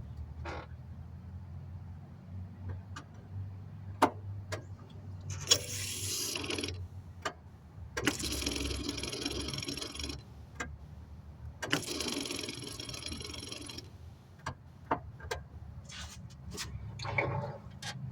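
Turbo Honda Civic's fuel system priming three times, key cycled with sharp clicks in between, each prime a rushing noise of about two seconds over a steady low hum. The owner suspects the sound means a clogged fuel return line.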